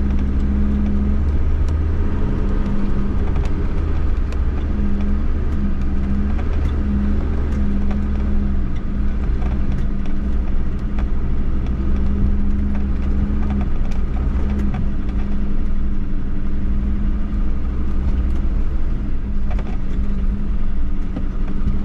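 4x4 engine running steadily at low speed on a muddy track: a continuous low rumble with a hum that fades in and out.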